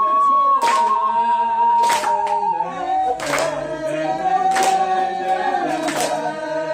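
Group singing of a slow song with long held notes, with a sharp clap or beat a little more than once a second.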